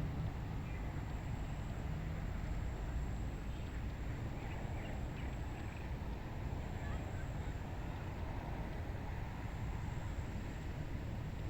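Steady wind over a rice paddy, mostly a low rumble, with a few faint short calls about four to five and seven seconds in.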